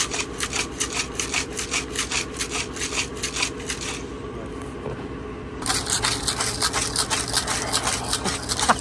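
Rocks rattling and scraping inside a rusty steel gas tank as it is shaken to scour the rust loose. The strokes come about four to five a second, stop for a second or two near the middle, then start again.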